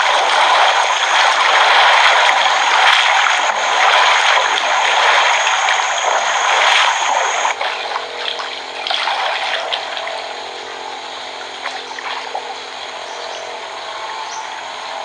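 Running water, an even rushing and trickling, that drops noticeably in level about halfway through, leaving a fainter rush over a faint steady hum.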